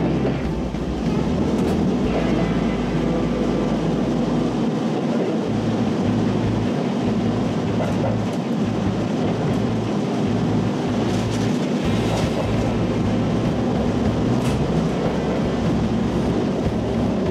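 Diesel railcar running slowly into a station, heard from the front of the train: a steady engine hum with wheel and rail noise and a few light clicks over the track.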